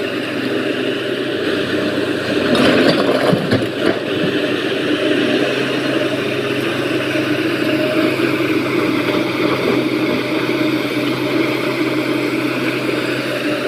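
Heavy diesel machinery running steadily, with a louder passage of knocks and clatter about three seconds in.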